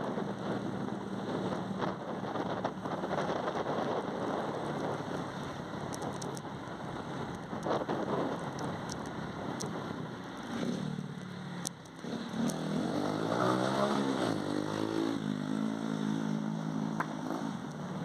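Motorcycle engine running under a constant rush of wind and road noise. About two-thirds of the way through, the engine note dips, then rises and falls again as it slows and picks up speed.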